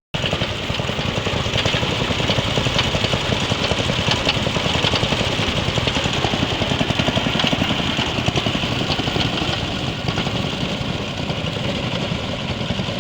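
Small engine of a homemade grass-cutting machine running steadily, with a rapid, even pulsing.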